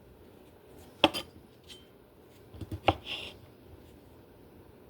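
Kitchenware handled on a counter: two sharp clinks, about a second in and near three seconds in, with faint handling sounds between.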